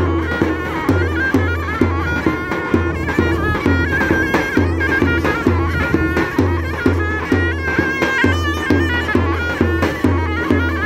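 Davul and zurna playing a Turkish folk tune: the zurna's shrill, ornamented melody over deep drum strokes of the davul in a steady rhythm.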